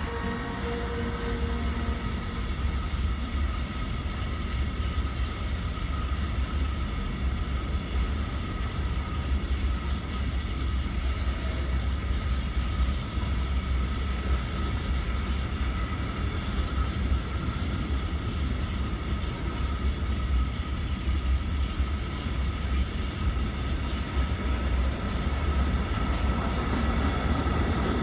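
Freight train of cement tank wagons rolling past at steady speed, with a continuous low rumble and wheel clatter. In the first second or two a fading whine from the BB 27000 electric locomotive that has just passed is heard.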